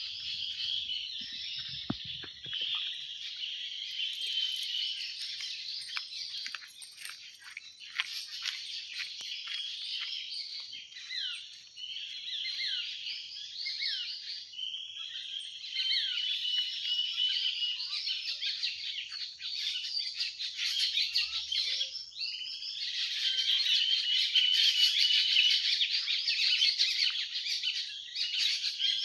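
Morning chorus of many small birds chirping and twittering at once: dense, overlapping high calls without a break, growing fuller about two-thirds of the way through.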